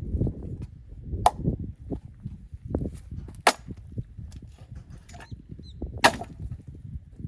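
Axe splitting firewood logs: three sharp, gunshot-like cracks roughly two to two and a half seconds apart, with a few lighter knocks between them.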